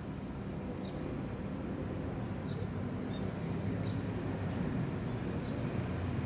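Approaching JR commuter electric train rumbling into the station, its low rumble growing slowly louder. A few faint high chirps come through over it.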